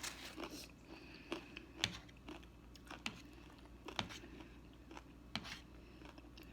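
Close-miked eating sounds: a person chewing, with scattered sharp mouth clicks and smacks roughly once a second.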